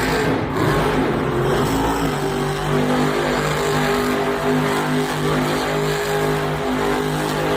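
Monster truck engine running hard and loud during a donut. Its pitch climbs over the first couple of seconds, then holds steady.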